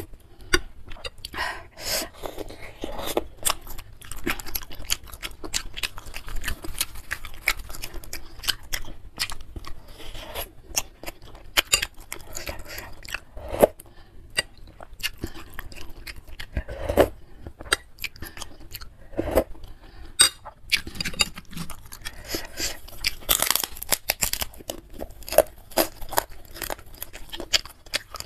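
Close-miked eating sounds of meatball soup with instant noodles and crackers: wet chewing and crunching in irregular small clicks and crackles, with now and then a spoon or fork knocking on the bowl.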